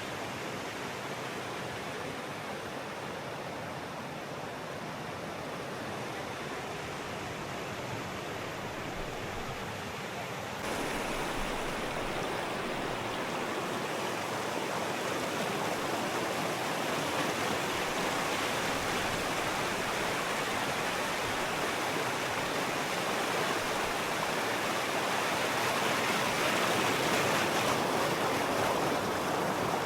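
Steady rush of flowing river water. About ten seconds in it turns suddenly louder and brighter.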